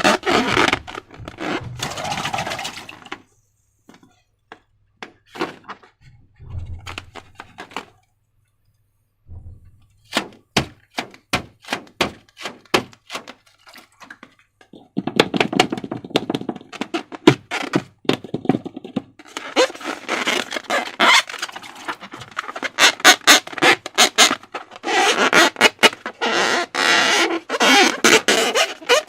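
Slime being squished and stretched by hand, giving irregular wet clicks and snaps, which thicken into long runs of dense crackling squelches from about halfway through.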